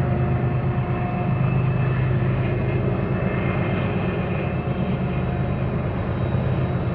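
Diesel-electric freight locomotives running with a steady, loud engine drone.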